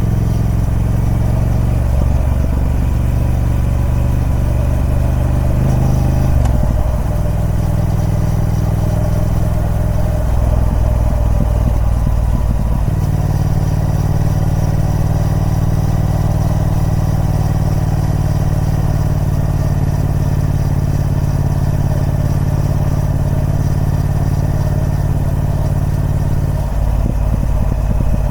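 Triumph Speed Twin 1200's parallel-twin engine running through its stock exhaust at steady revs. The engine note changes to a new steady pitch about six seconds in, again about halfway through, and once more near the end.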